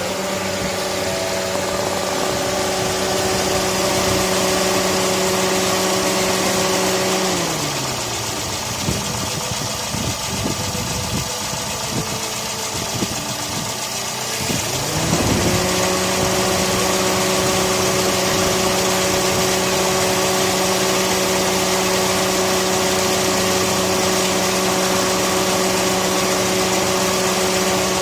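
Toyota Vitz idling with a steady whirring hum from a motor in the engine bay. The hum winds down about seven seconds in, leaving a rougher uneven idle, spins back up about fifteen seconds in, and starts winding down again near the end: the on-off cycling of a car whose air conditioning cuts out by itself.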